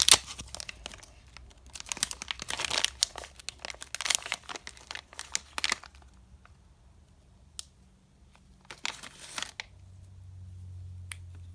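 Candy wrapper being crinkled and torn open, with dense crackling for about six seconds. Then come a few single clicks and one more short crinkle.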